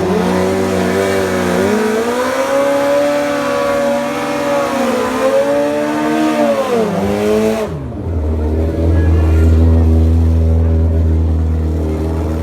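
Racing motorcycle engines revving, the pitch rising and falling. About eight seconds in the pitch drops away sharply and a steady low drone takes over.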